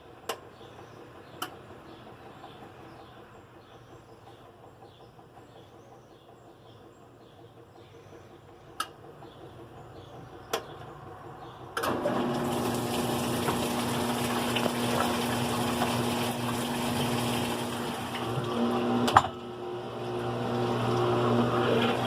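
GE Profile top-load washing machine, quiet apart from a few sharp clicks, then about halfway through water suddenly starts rushing through it with a steady low hum. A sharp click near the end briefly drops the sound before it resumes.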